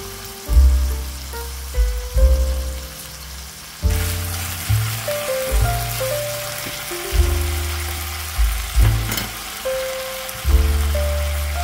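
Chicken pieces sizzling in oil in a frying pan, under background music with deep bass notes. The sizzle grows louder about four seconds in.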